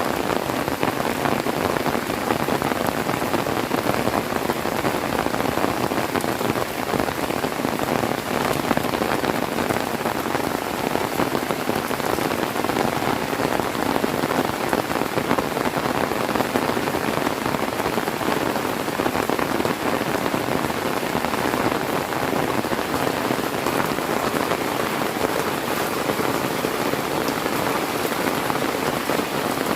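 Heavy rain falling steadily, a dense, even patter with no thunder.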